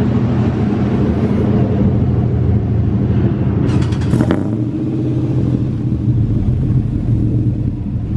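Pickup truck's engine idling steadily, with no revving. A brief clatter comes about four seconds in.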